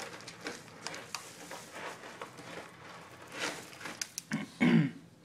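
Crinkling and rustling of a torn pet food bag being pulled and pawed at, with dry food pattering, in irregular short crackles. A brief voice sounds near the end.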